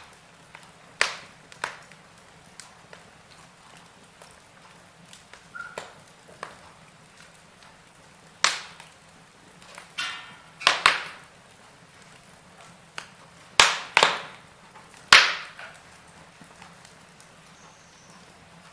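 Wood fire in a fireplace crackling, with sharp pops every second or two at irregular intervals over a soft steady hiss.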